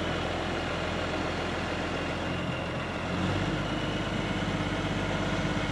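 Crane's heavy engine running steadily, its note and load changing about three seconds in as it works, while it lifts timbers off a truck.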